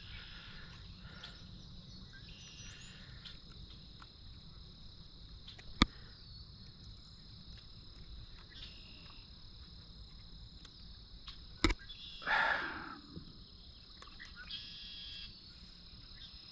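Steady high insect chorus, like crickets trilling without a break, over a low rumble. Two sharp clicks about six seconds apart, and a short louder sound a little later.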